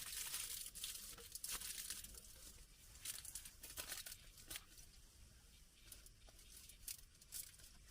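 Faint, irregular crinkling and rustling of a sheet of aluminium foil being handled as a heat screen.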